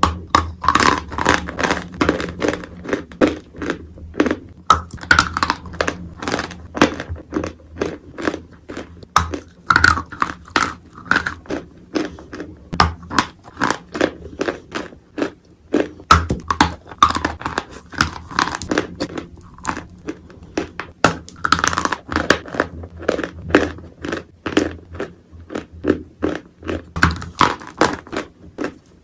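Close-up crunching and chewing of dry Turkestan edible clay: repeated big bites, each breaking into a dense run of crackling crunches, with louder bites every few seconds.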